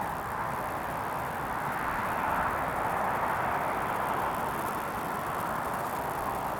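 Bombardier CRJ-900 regional jet's twin rear-mounted turbofans heard from a distance as the airliner rolls out after touchdown: a steady rushing jet noise that swells a little midway.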